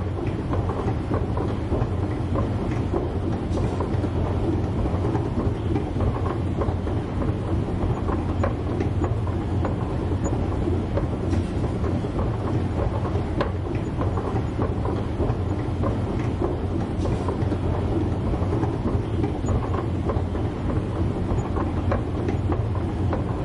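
Escalator running: a steady low mechanical rumble with faint, irregular clicks from the moving steps.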